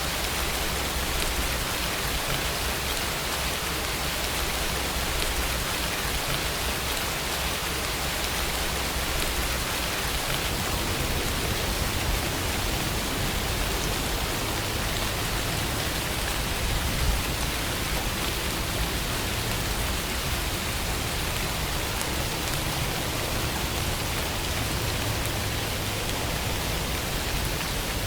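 Steady, even rainfall, a continuous hiss of rain with no breaks.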